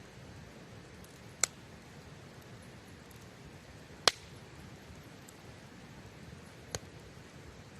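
Campfire of wood and charcoal burning: three sharp pops a few seconds apart, the middle one the loudest, over a steady low hiss.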